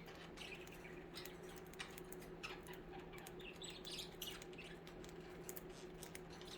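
Pet budgerigars chirping and chattering softly, with scattered light clicks.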